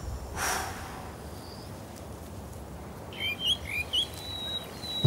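Songbirds chirping from about three seconds in: short, quickly repeated chirps over a thin, steady high whistle. About half a second in there is a brief hiss.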